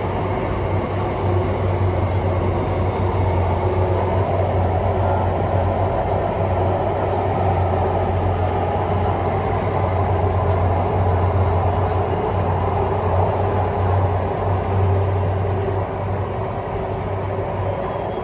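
Singapore MRT train running steadily, heard from inside the carriage: a continuous low hum and rumble of motors and wheels on rail that eases slightly near the end.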